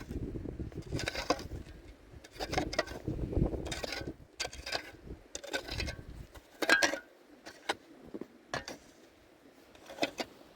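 Irregular knocks and scrapes at uneven intervals, with the loudest knock about two-thirds of the way through.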